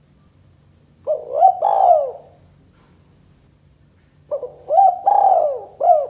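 Spotted dove (tekukur) cooing: two phrases of several arching coos, one about a second in and another starting about four seconds in.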